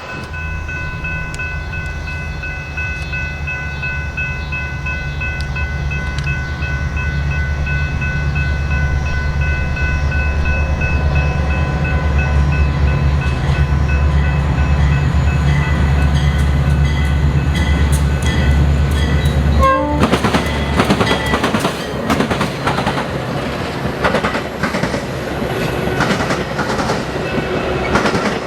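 A diesel locomotive approaches with its air horn sounding a long, steady chord over a deep engine rumble that grows louder. About two-thirds of the way through the horn stops, and the train passes with a dense clatter of wheels over the rails.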